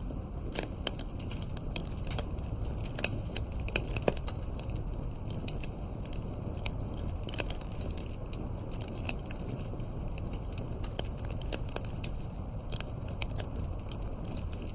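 Wood campfire burning, crackling and popping irregularly over a steady low rush of flame, with a sharper pop about four seconds in.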